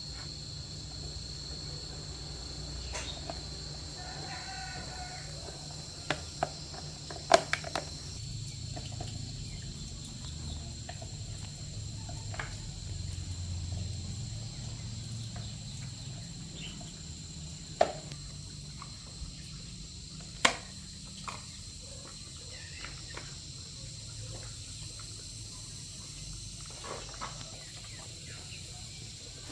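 Steady high-pitched drone of crickets and other insects, with a handful of sharp knocks or taps scattered through it, the loudest a close pair about a quarter of the way in and two more a little past the middle.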